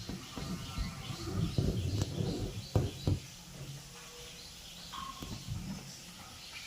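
Small birds chirping over and over in the background, with low rustling and a few sharp knocks in the first half.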